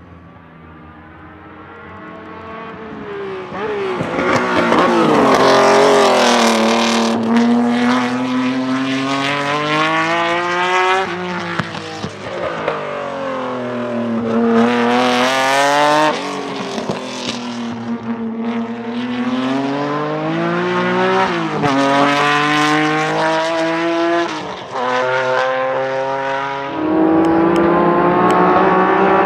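Honda NSX racecar's stroked 3.5-litre V6 with a straight-pipe exhaust driven hard: the engine note climbs in pitch under full throttle and drops back sharply, several times over. It starts quiet and swells to full volume over the first few seconds.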